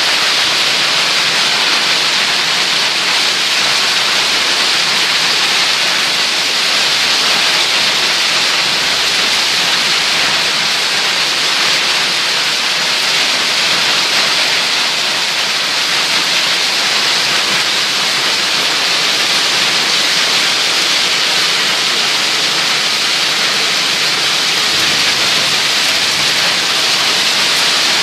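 Heavy downpour of rain, a dense steady hiss that neither builds nor eases.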